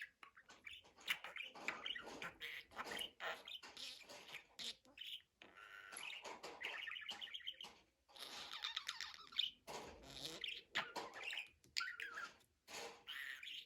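Budgerigar warbling and chattering almost without pause: a stream of short chirps, clicks and squawks, with a run of quick repeated notes about six seconds in.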